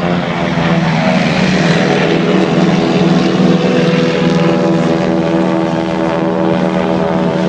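Propeller aircraft engine running with a loud, steady drone.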